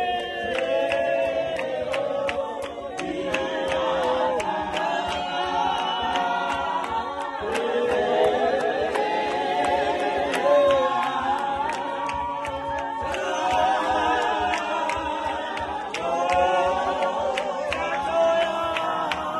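A group of voices singing together in harmony, unaccompanied, in a choral style.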